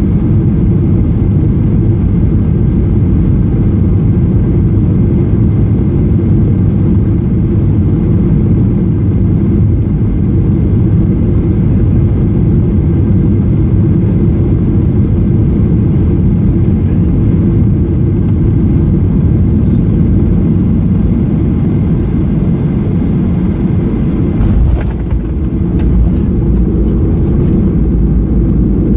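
Boeing 737-800 engines and airflow heard inside the passenger cabin: a loud, steady low roar. About 25 seconds in the roar briefly dips, a few sharp clicks sound, and a deeper low rumble follows.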